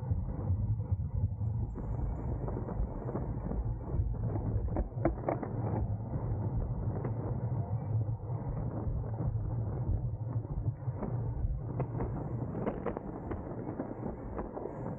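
Wind rumble on the microphone and tyre-on-road noise from a road bike racing at speed, with scattered short clicks and rattles.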